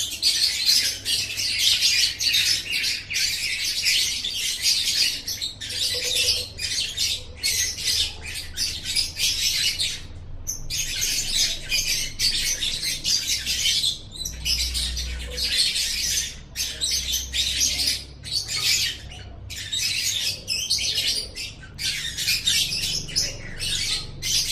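Lovebird singing: a fast, shrill, chattering trill kept up in long runs of several seconds, broken by brief pauses.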